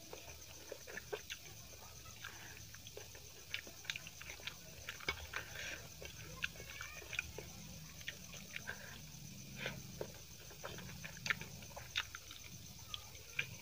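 Close-miked chewing and mouth sounds of a person eating chicken biryani by hand: irregular sharp clicks and smacks as she chews rice and chicken.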